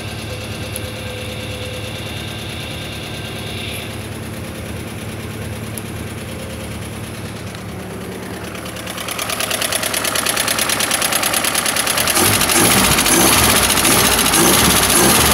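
Willys F134 Hurricane four-cylinder F-head engine running steadily, growing clearly louder from about nine seconds in.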